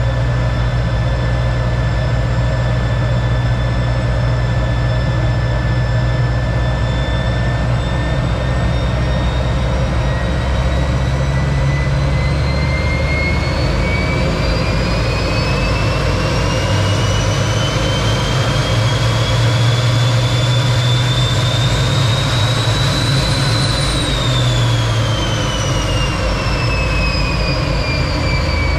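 T-33 jet trainer's turbojet engine running, with a steady low rumble under its whine. The whine rises steadily in pitch for about fifteen seconds, peaks, then falls away over the last few seconds as the engine spools up and back down.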